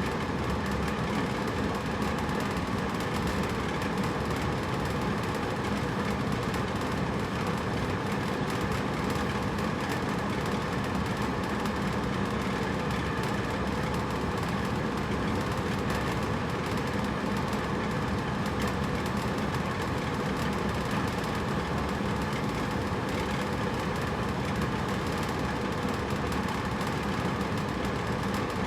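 Hotel room air conditioner running steadily: an even rushing hum with a low drone, unchanging throughout.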